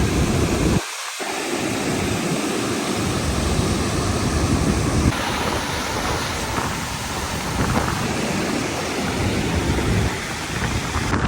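Waterfall: a steady rush of falling water, with a low wind rumble on the microphone that drops out briefly about a second in.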